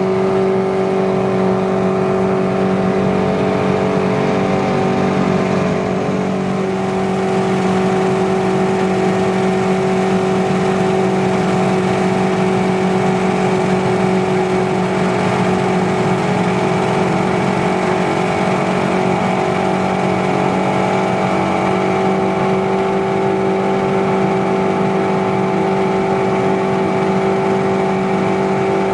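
Motorboat engine running steadily at an even pitch while the boat is under way.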